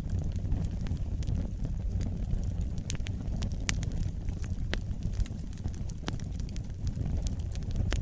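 Wood fire burning in a fireplace: a steady low rumble of flames with scattered sharp crackles and pops, the loudest a little after three seconds in.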